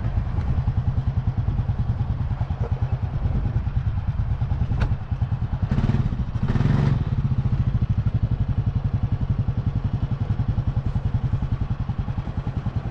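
Supercharged Yamaha SVHO four-stroke personal-watercraft engine idling steadily with a fast, even low pulse. A sharp click comes a little before the middle, and two short bursts of hiss follow around the middle.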